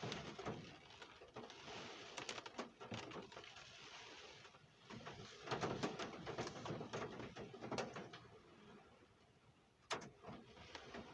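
Storm rain: an uneven hiss that swells and fades, with scattered drips and knocks and a sharp knock about ten seconds in.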